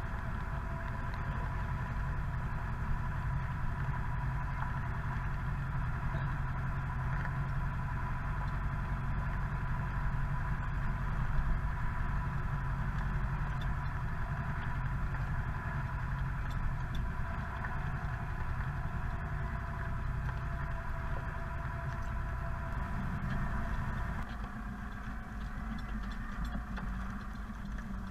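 Zetor Proxima 80 tractor's four-cylinder diesel engine running steadily, with a thin steady whine above the drone. About 24 seconds in, its low note changes and drops a little in level.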